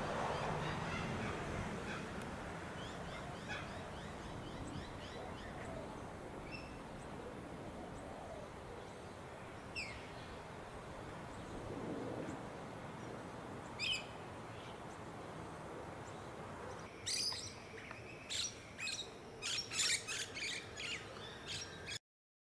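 Small birds chirping over a steady background hiss: single calls now and then, then a run of loud, quick chirps over the last few seconds before the sound cuts off suddenly.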